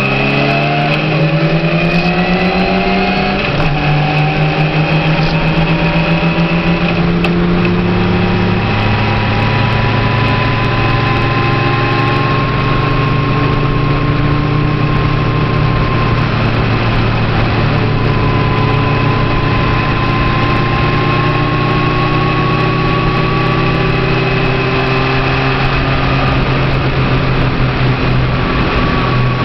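A car's engine and tyre noise heard from inside the cabin while it drives at steady road speed. The engine note steps down in pitch twice in the first eight seconds, then holds steady.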